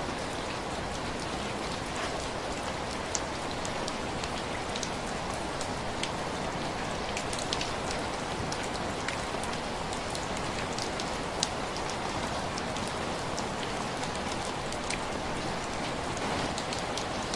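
Heavy rain falling steadily, with scattered sharp crackles and pops from a wood fire.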